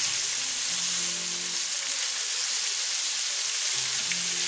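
Oil sizzling steadily in a frying pan as breaded potato-and-meat patties fry in it.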